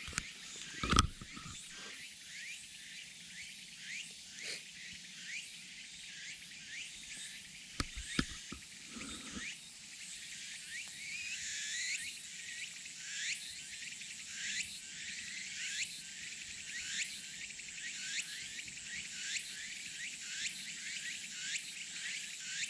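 Insects calling: a steady high drone with many short rising chirps repeating, growing busier about halfway through. Two low thumps, the loudest sounds, come about a second in and about eight seconds in.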